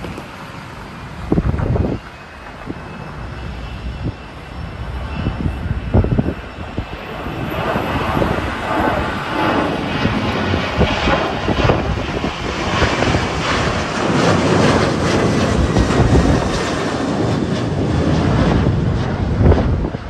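Jet airliner engines, a broad noise building up over several seconds and holding strong with a faint high whine, mixed with wind gusts buffeting the microphone.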